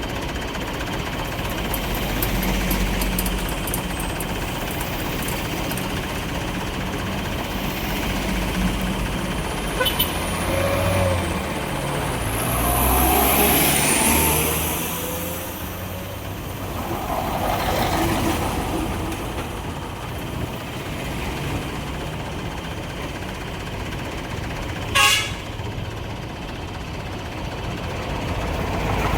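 Road traffic: trucks and cars passing with their engines running, the noise swelling as each one goes by, and a short sharp hiss near the end.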